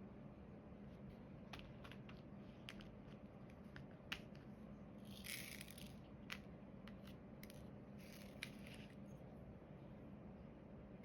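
Faint small clicks and taps of diamond-painting work, resin drills being picked up and pressed onto the sticky canvas, with two short rattling rustles about five and eight seconds in.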